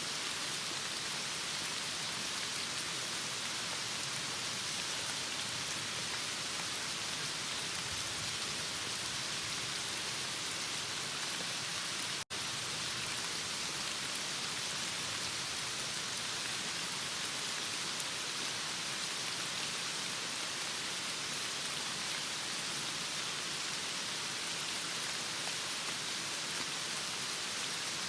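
Heavy rain falling steadily, a dense even hiss; it drops out for a split second about twelve seconds in.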